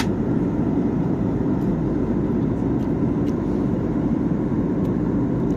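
Steady airliner cabin noise in cruise flight: the even, deep rush of the jet engines and airflow, unbroken throughout, with one sharp click at the very start.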